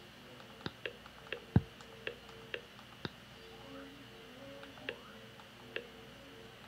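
About ten sharp, irregularly spaced clicks from the buttons of a handheld remote control being pressed, the loudest about a second and a half in, over a faint steady hiss and hum.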